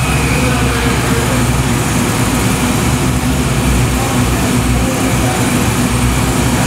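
Fox-body Ford Mustang drag car's engine running at a loud, steady idle while the car rolls slowly.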